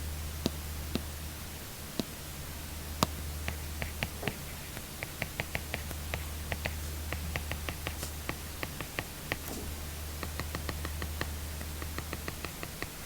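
Apple Pencil tip tapping on an iPad screen while writing: a quick, uneven run of sharp ticks, a few scattered at first, then several a second through the middle. A steady low hum lies underneath.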